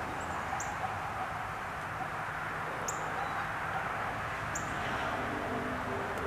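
A bird chirping a few times, short very high notes every second or two, over a steady outdoor background hiss. A few steady low tones start near the end.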